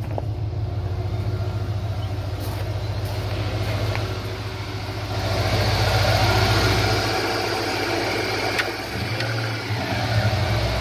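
1986 Ford Bronco engine idling steadily, with its new dual electric radiator fans running to pull the coolant temperature down. About halfway through, the rushing air of the fans grows much louder.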